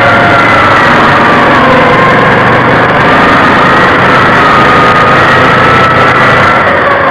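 Loud, steady engine noise, with a whining tone that drifts slowly up and down in pitch.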